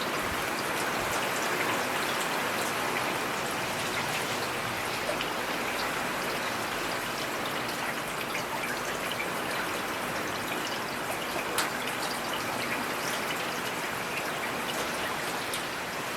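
Steady rain falling in a forest, an even hiss with separate drops ticking sharply here and there, one louder drop about eleven and a half seconds in.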